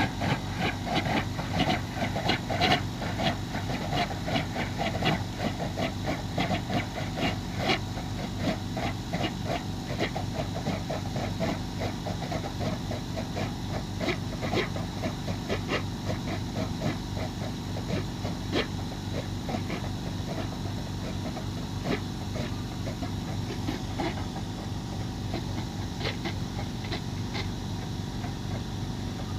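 Foam generator machine for lightweight foamed-concrete bricks running: a steady low hum with hissing and irregular crackling spurts. The crackle is busiest in the first several seconds and thins out after that.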